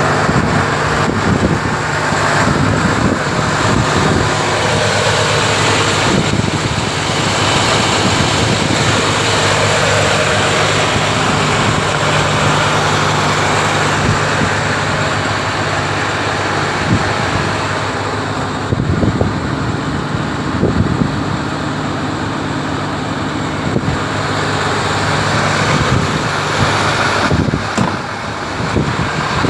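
MAN TGS 35.360 truck's diesel engine running steadily at idle, with a few short knocks in the second half.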